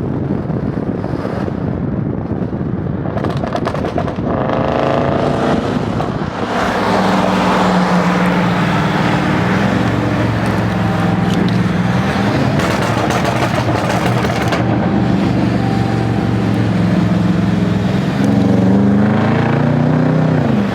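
Car engine accelerating: its pitch rises about four seconds in, holds steady while cruising, then rises and drops again near the end.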